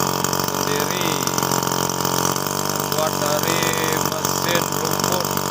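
Lawn mower engine running steadily on a homemade aircraft, with people's voices over it.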